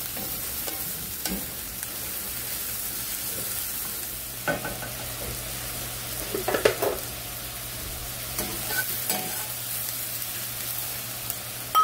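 Diced onions and red peppers sizzling steadily in olive oil in a cast-iron skillet, with a spoon scraping and knocking against the pan now and then, loudest a little past halfway. A short metallic clink comes right at the end.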